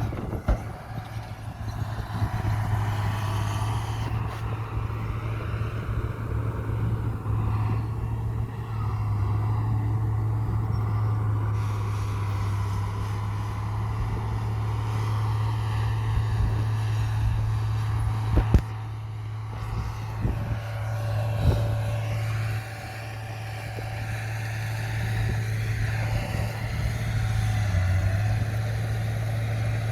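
Komatsu bulldozer's diesel engine running steadily, with a few sharp knocks in the second half.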